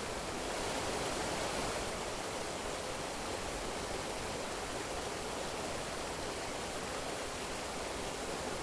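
Steady rushing of flowing water, an even hiss with no distinct splashes, swelling slightly about a second in.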